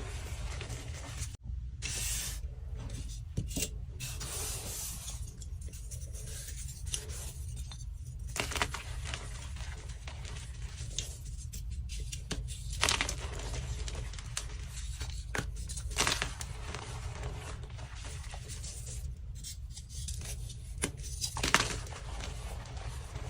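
Blocks of dyed gym chalk being crushed and crumbled: irregular dry crunching and crackling with a few sharper crunches, over a steady low hum. The sound cuts out briefly about a second and a half in.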